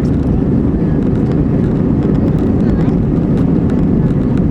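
Steady low rumble inside the cabin of an Airbus A320 airliner: its engines and airflow running at an even level.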